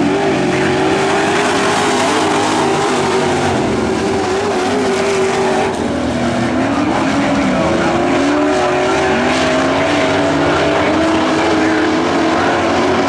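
Several racing truck engines running hard together, their pitch rising and falling over and over as they accelerate and back off.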